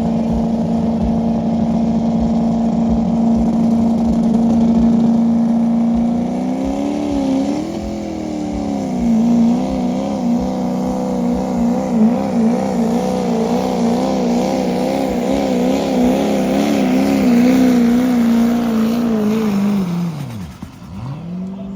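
Diesel pickup truck engine at high revs under full load, pulling a sled. The note holds steady for about six seconds, then wavers quickly up and down in pitch through most of the run, and falls away sharply near the end as the engine comes off the throttle.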